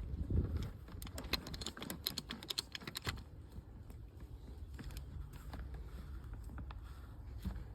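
Quick small clicks and rattles of hand tools and wiring parts being handled, densest in the first few seconds, after a dull knock at the start.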